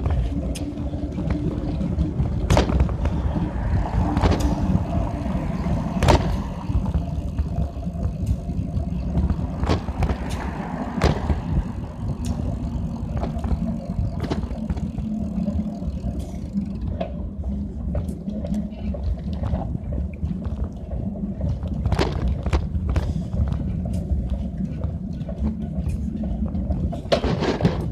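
Riding bicycle: a steady low rumble of wind and road noise, with scattered clicks and rattles from the bike and the wheels rubbing on the fenders.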